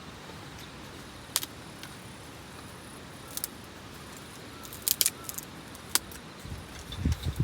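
A few short, sharp metallic clicks and clinks over a steady hiss, with low rumbling buffets starting near the end.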